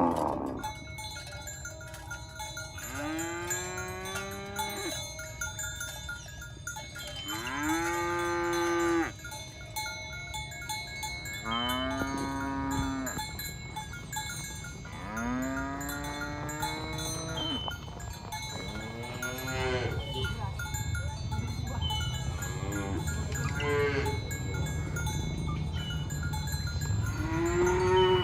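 Cattle mooing again and again: about seven long, drawn-out calls, a few seconds apart, some overlapping, over a steady low rumble.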